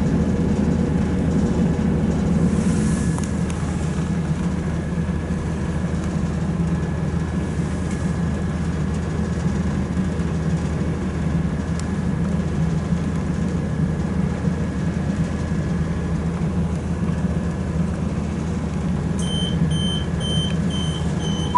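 Steady low rumble of a passenger train heard from inside the carriage as it runs slowly, with a faint steady whine. Near the end a run of regular high-pitched beeps starts, about two a second.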